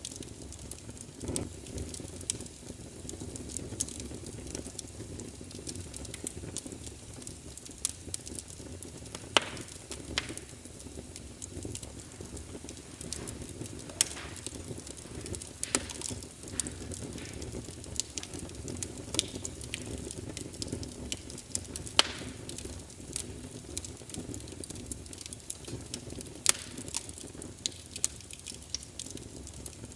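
Fire burning in a fireplace, with a steady low rumble of flames and frequent sharp crackles and pops, a handful of them louder snaps.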